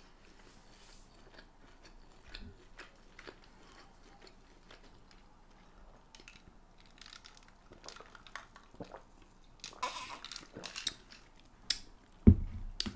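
Close-miked mouth sounds of chewing food, soft clicks and smacks. From about halfway in come louder sipping and swallowing as a drink is taken through a straw. Near the end there is one loud low thump as the glass mug is set down on the wooden board.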